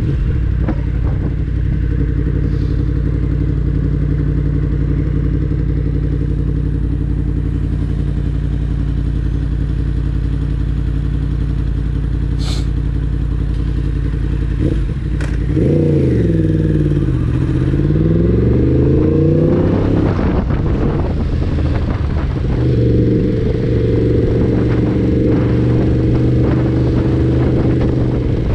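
Yamaha MT-10's crossplane inline-four engine running at low city speed, heard from the rider's seat. About halfway through, the engine note dips and then climbs again as the bike picks up speed, then holds steady. A couple of sharp clicks come just before the dip.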